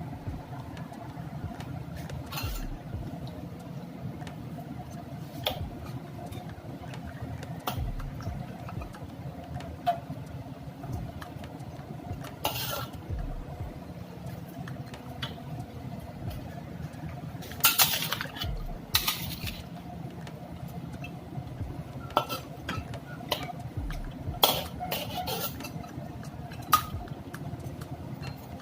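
A cooking utensil clinking and scraping against a pot at irregular moments, with a cluster of louder clinks about two-thirds of the way through, over a steady low hum.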